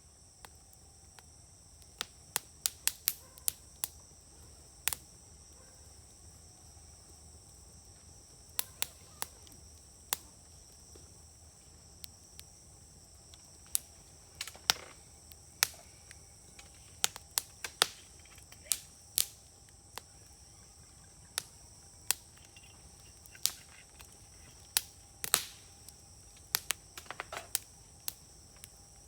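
Wood fire crackling, with sharp, irregular pops from the burning firewood, some singly and some in quick clusters. A steady high-pitched whine runs behind it.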